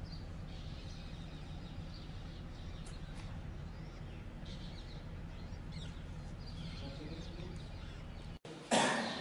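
Birds chirping now and then over a steady low rumble of outdoor background noise. Near the end the sound drops out for a moment, then a sudden loud burst of noise starts.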